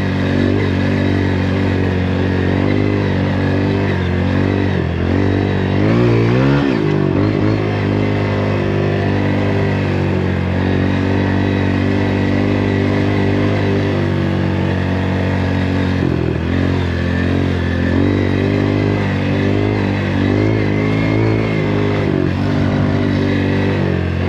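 Dirt bike engine running steadily while riding a trail. Its pitch dips and climbs again with the throttle about six seconds in, and once more around sixteen seconds.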